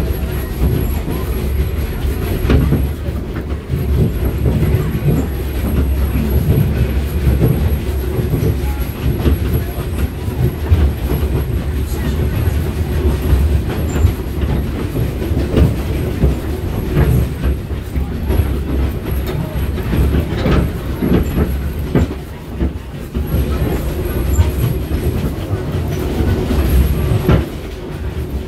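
Narrow-gauge train car rolling along the track, heard from aboard: a steady low rumble and rattle with irregular clacks of the wheels on the rails.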